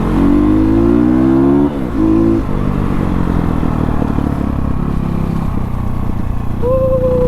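Dirt bike engine accelerating hard, its pitch climbing for nearly two seconds, dropping suddenly at a gear change, then running steadily. A brief flat, held tone sounds near the end.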